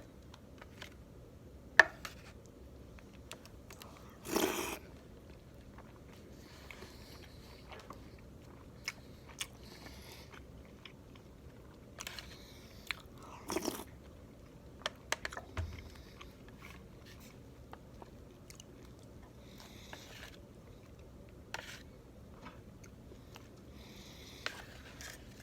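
Close-miked mouth sounds of someone eating steamed chicken momos: sparse wet clicks and chewing, with a sharp click about two seconds in and two longer, louder bursts around four and fourteen seconds in.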